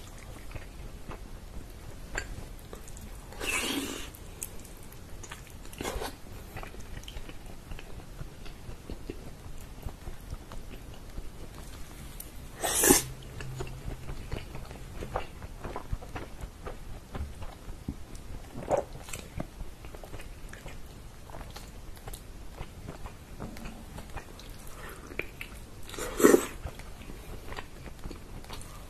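Close-up chewing and wet mouth sounds of someone eating soft, fall-off-the-bone chicken in tomato sauce with their fingers: many small smacks and clicks, with a few louder brief mouth noises about 4, 13 and 26 seconds in.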